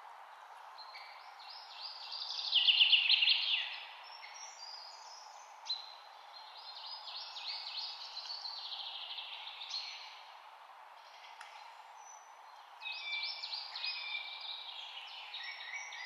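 Birds chirping in quick trilled series over a steady background hiss, loudest about two to four seconds in, with further bouts later.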